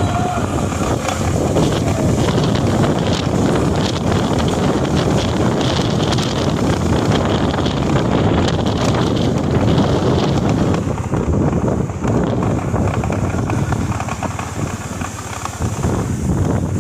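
Hurricane wind rushing and buffeting the microphone in loud, continuous gusts.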